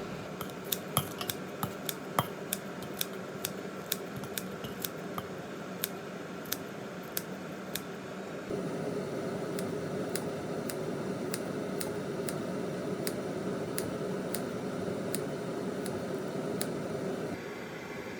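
A run of quick, sharp clicks or snips, several a second at first and then about one every half second. Under them runs a steady hiss that gets louder about eight seconds in and drops back near the end.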